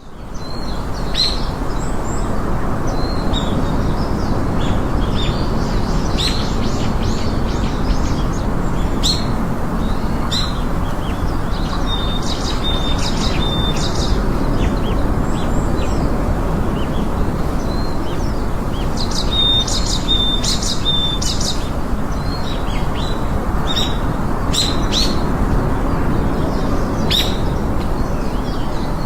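Birds chirping in short repeated calls, with a few brief clear whistled notes, over a steady rushing background noise.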